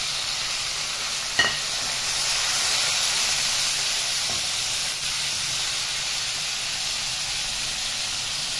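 Raw chicken pieces sizzling steadily in hot oil in a metal pan, stirred with a wooden spatula. One sharp knock about one and a half seconds in.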